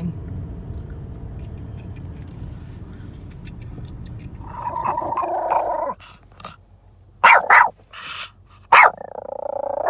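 Low car-cabin road rumble, then a dog inside the car: a drawn-out growl about halfway through, three sharp barks, and another growl near the end.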